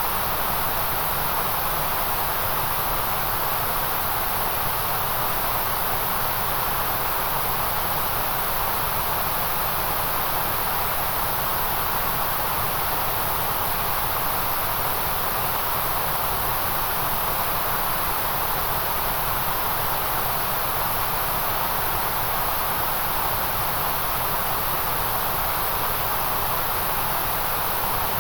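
Steady, unchanging white noise: a continuous hiss with a stronger band in the middle range and a bright hiss at the very top.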